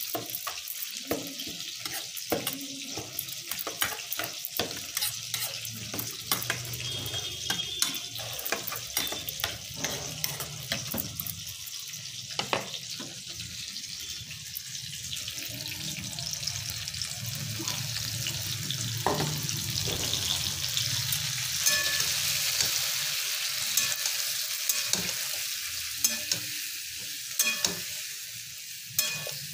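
Eggplant and masala frying in a kadai, a steady sizzle that swells louder past the middle, with the metal spatula clicking and scraping against the pan as the bharta is stirred.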